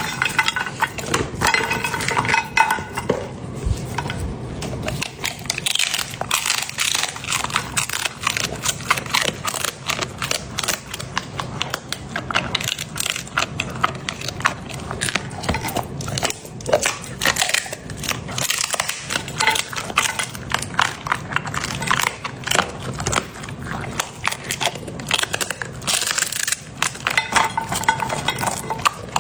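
A Labrador crunching and chewing through raw bone-in meat, a dense run of sharp cracks and crunches without pause.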